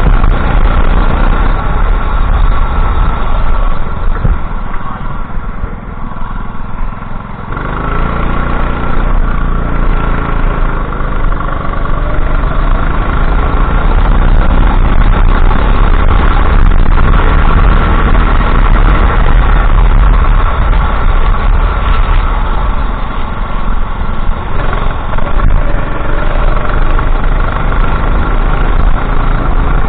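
Go-kart engine running hard, easing off for a few seconds about four seconds in and then rising in pitch again as it accelerates.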